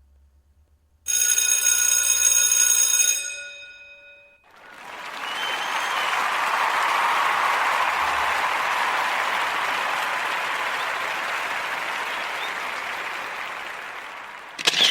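Two stock sound effects in turn: a bell rings for about two seconds, about a second in, then a crowd applauds for about ten seconds, swelling and then slowly fading. A short sharp sound comes at the very end.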